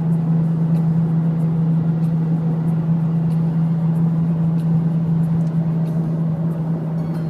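Worn front-wheel-drive wheel bearing on a 2009 Honda Accord droning as the car rolls, a steady hum on one low pitch over road rumble. The sound is really loud, the sign of a badly worn wheel bearing.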